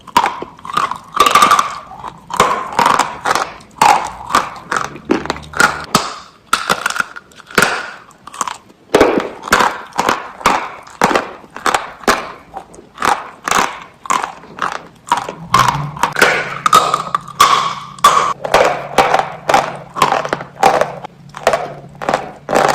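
Close-miked crunching and chewing of crisp cream biscuits, about two to three sharp crunches a second throughout.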